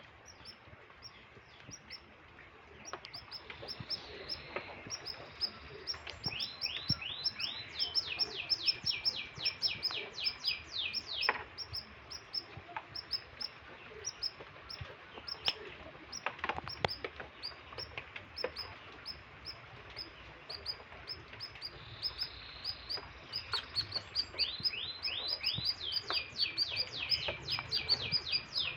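Domestic canary singing a long, vigorous song of fast chirps and trills. It breaks twice into runs of rapid repeated falling notes, about six seconds in and again near the end. This is the hard, non-stop song of a canary in strong breeding condition.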